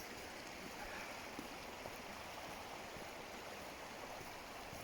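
River Ashop flowing steadily: an even rush of running water.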